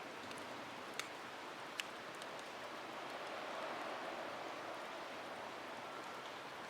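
Wood fire in a small fire stand, a steady hiss with a few sharp crackles, two of them louder pops about one and two seconds in.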